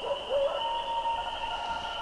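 Coyotes howling and yipping, several voices overlapping: short gliding yips and one longer held howl near the middle.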